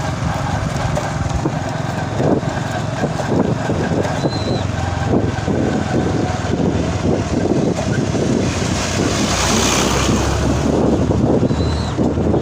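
Wind buffeting the microphone over a steady low vehicle rumble while riding along a road.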